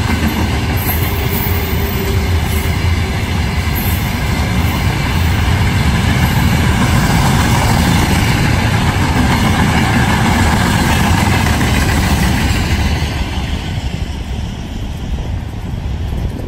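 Freight train rolling past close by: a steady, loud rumble of wagons on the rails with some wheel clatter, easing off a little in the last few seconds.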